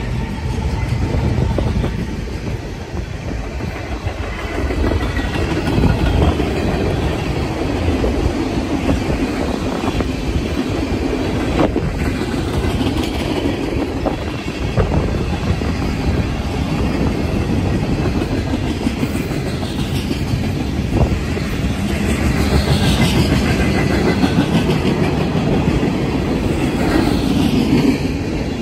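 Freight train cars rolling past close by: a steady rumble of steel wheels on the rails with a rhythmic clickety-clack over the joints. There are a few faint wheel squeals in the second half.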